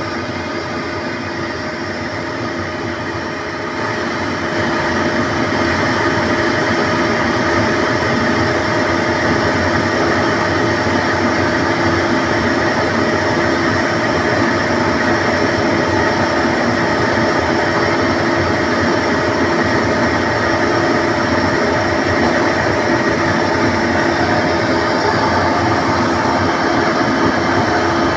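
Ingersoll Rand RM30i oil-injected rotary screw air compressor running with a steady mechanical hum and whine. It gets louder about four seconds in, then holds steady.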